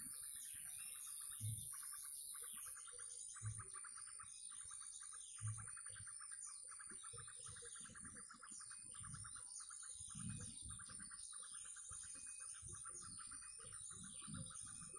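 Many birds chirping and calling over a steady, fast trill. Soft low thumps come about every two seconds in the first six seconds, and a high, thin steady tone stops about three seconds in.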